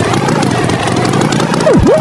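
Engine running steadily, a cartoon tractor's motor sound effect, with one quick whistle-like tone that dips sharply down in pitch and swings back up near the end.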